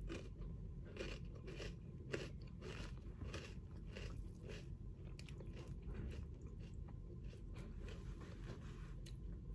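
Close-up chewing of a mouthful of Froot Loops cereal in milk: steady crunching bites just under twice a second.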